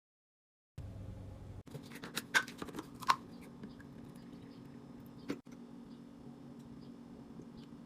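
Silence, then about a second in a steady low hum with scattered clicks and knocks of items being handled, two sharp clicks standing out a couple of seconds in.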